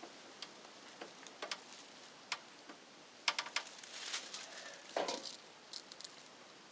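Scattered light clicks and taps of tools and small hardware being handled, with a quick rattle of clicks about three seconds in and a knock about five seconds in.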